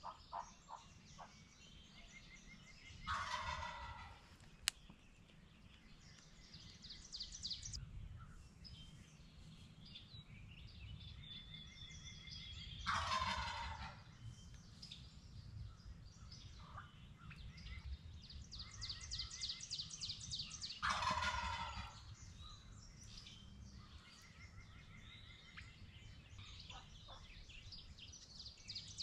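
Wild turkey gobbler gobbling three times, roughly nine seconds apart, each gobble a loud rattling call that drops in pitch. Songbirds trill and chirp between the gobbles.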